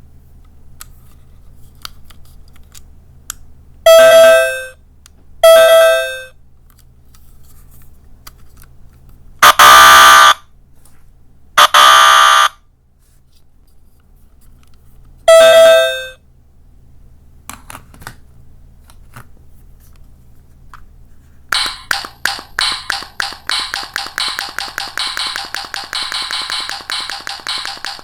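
Sound-effect button toys playing quiz-show cues: a short two-note "ping-pong" correct-answer chime twice, then two harsh "buzz" wrong-answer buzzers, then the chime again. Past two-thirds through, a fast run of short repeated beats starts and keeps going.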